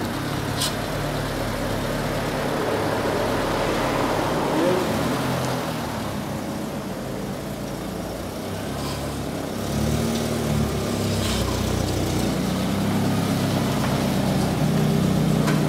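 Carburetted BMW E30 petrol engine running unevenly, its revs rising and falling a few times: the hunting idle, before the carburettor is adjusted.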